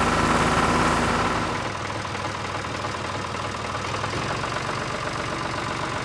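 Tractor engine idling steadily, laid on as a sound effect, fading out about a second and a half in; a steady hiss remains.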